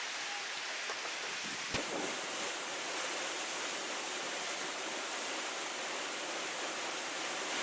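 Steady, even rush of water noise in hurricane conditions, with one faint click about two seconds in.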